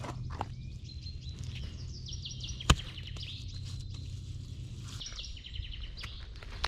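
A small songbird singing rapid runs of repeated high notes, twice, over a steady low hum, with one sharp click about two and a half seconds in.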